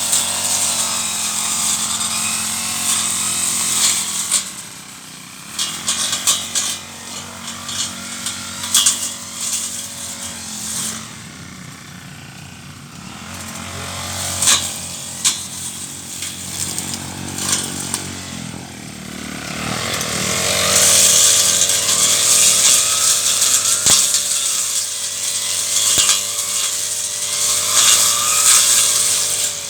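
Brush cutter engine running at high throttle, easing back to a lower speed for about fifteen seconds, then revving up with a rising whine and running at full throttle again.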